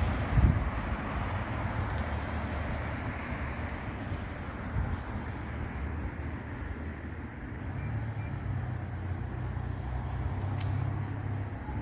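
Steady road traffic noise with a low rumble that swells again after about eight seconds, and a single knock about half a second in.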